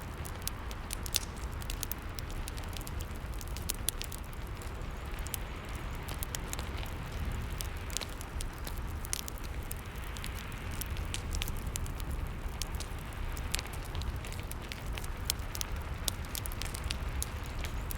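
Fireplace crackling, with frequent sharp pops and snaps at irregular intervals, over a steady hiss of rain.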